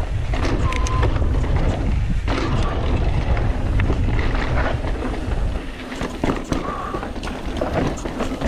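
Mountain bike riding down rocky dirt singletrack: wind rumbling on the ride camera's microphone, tyres rolling over dirt and rock, and the bike rattling and clicking over bumps.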